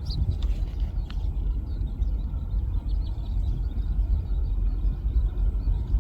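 Low, unsteady rumble of a distant aircraft's engines.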